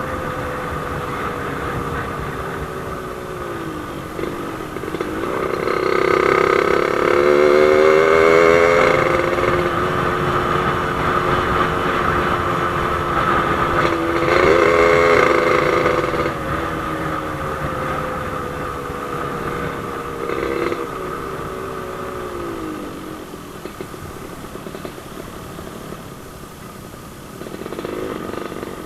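Yamaha RX-King two-stroke motorcycle engine under way, its pitch rising and falling as the rider works the throttle. It gets louder for a few seconds about six seconds in and again around the middle, and eases off twice with a falling pitch.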